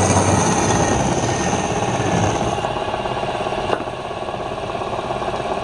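Wood lathe running with a tool working the spinning palm wood: a steady, loud rattling mechanical noise, with one short click a little before four seconds in.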